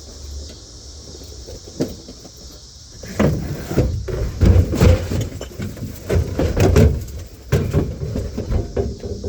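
Rustling, scraping and knocking inside a car body as the old headliner and its trim are worked loose and pulled down. There is one knock about two seconds in, then a busy run of scrapes and bumps from about three seconds on.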